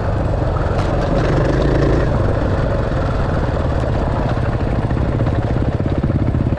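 Dirt bike engine running steadily, settling into an even, fast-pulsing idle in the second half.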